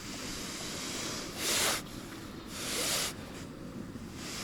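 Wind buffeting the microphone on open lake ice, with two short hissing bursts about a second and a half and two and a half seconds in.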